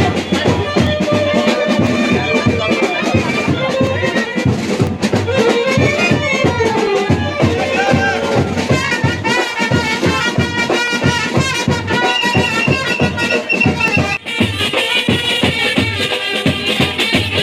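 Band music: wind instruments playing a melody over a steady drum beat. The music breaks briefly about 14 seconds in and resumes with a brighter, higher tone.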